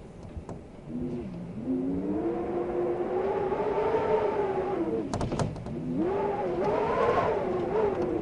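Wind gusting and howling, with a whistling tone that swells about a second in and rises and falls in pitch. A few quick clicks or rattles come about five seconds in.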